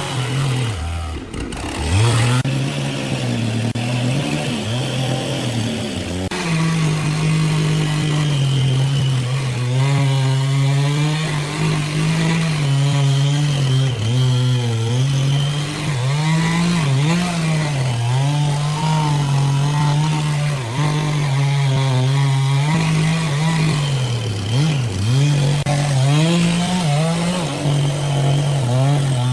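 Engine-driven saw cutting wood, running steadily. Its engine note steps up about six seconds in, then sags and recovers again and again as the blade takes load in the cut.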